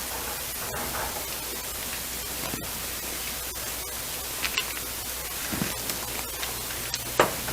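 Steady sizzling hiss from a pan of sauce cooking over raised heat on the stovetop, with a few faint taps, the clearest near the end.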